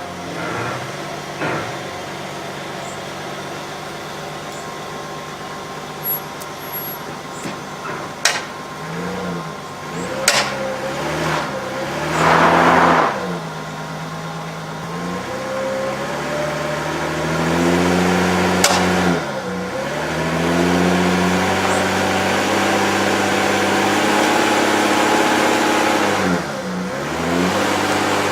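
Vehicle engine running and changing speed, its pitch rising and falling several times, with a burst of hiss about twelve seconds in and a few sharp knocks.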